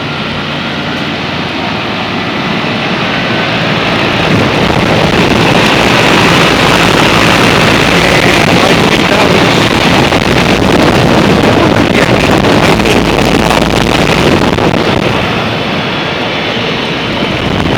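Commercial air-conditioning condensing units running: a steady fan-and-compressor noise, with rushing air on the microphone, that grows louder about four seconds in and eases off near the end.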